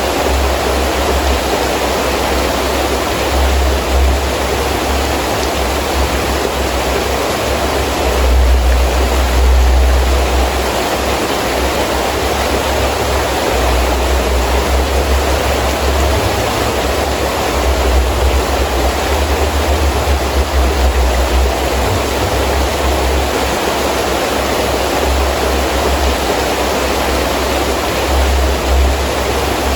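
Heavy rain falling steadily, with gusting wind rumbling underneath; the gusts swell about a third of the way in and again past the middle.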